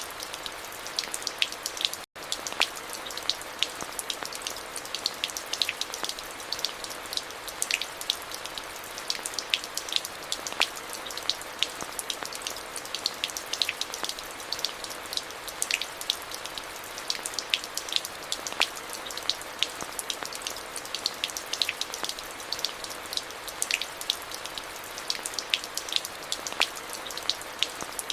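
Steady rain, with many separate drops pattering sharply over a constant hiss. The sound cuts out for an instant about two seconds in.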